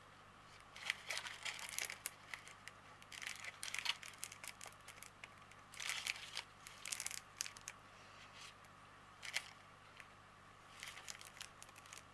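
Small plastic bags of diamond-painting drills crinkling and rustling as they are handled, in short irregular bursts.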